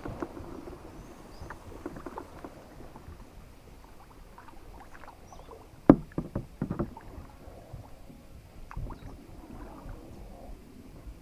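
Kayak on the water: paddle and water sounds with small knocks against the hull over a low rumble. A sharp knock comes about six seconds in, followed by a few smaller ones.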